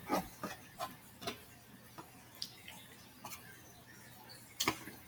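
Eating sounds: a string of soft, irregular clicks and smacks from chewing, about eight in all, with the loudest one near the end.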